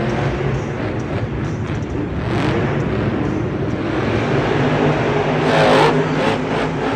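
Monster truck engine running and revving in a stadium arena, over a steady wash of crowd and arena noise, with a brief louder swell near the end.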